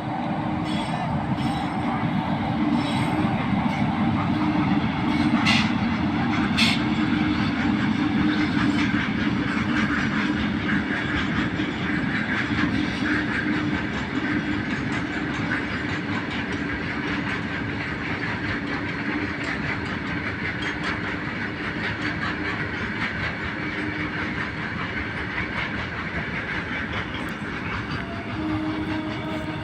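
Train passing at speed, its wheels clacking over the rail joints under a steady low drone, loudest in the first third and then slowly fading.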